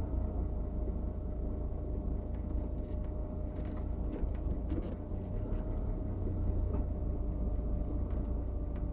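Car driving at steady speed, heard from inside the cabin: a low, even rumble of engine and road noise with a faint steady hum.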